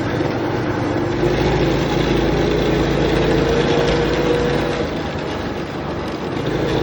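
Predator 212cc single-cylinder go-kart engine with a stage one kit, running loudly and steadily; its pitch climbs a little a few seconds in, then eases back.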